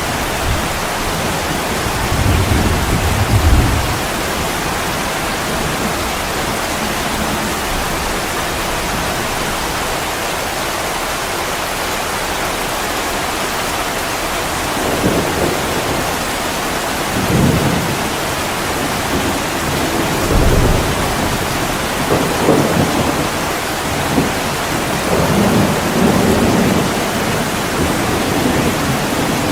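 Steady heavy rain hissing, with low rolls of distant thunder rumbling in about two seconds in and several more times in the second half.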